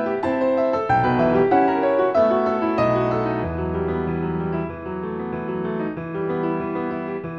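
Background piano music: a run of notes over a sustained bass, softer after about three and a half seconds.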